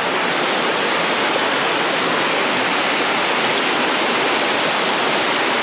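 Small mountain stream running, a steady rush of water.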